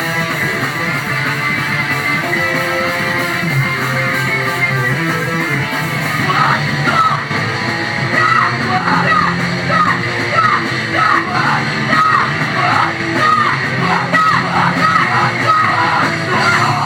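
Live rock band playing loud guitar-driven music. From about six seconds in, a vocalist yells short, repeated lines over it.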